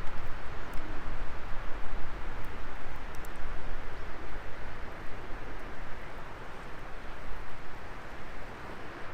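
Wood fire burning: a steady rushing hiss of flames, with a few sharp crackles and pops in the first three seconds.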